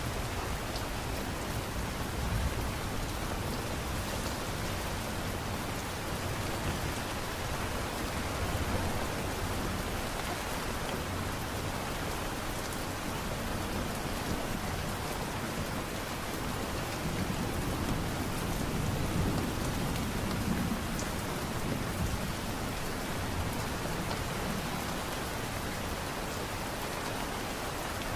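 Steady light rain falling, an even patter with small drop ticks, swelling slightly with a low rumble a little past halfway through.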